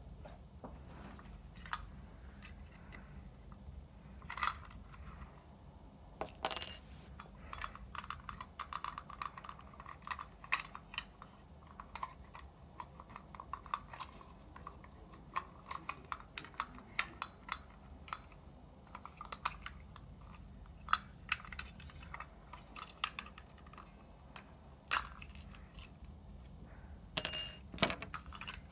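Scattered light clicks and metallic clinks of small hard parts being handled, two of them louder and ringing, about six seconds in and near the end.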